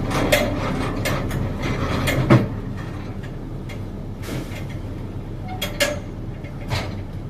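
A vehicle's engine runs with a steady low hum, overlaid by scattered mechanical clicks and knocks. Most of them fall in the first two and a half seconds, the loudest a little over two seconds in, with a few more near the end.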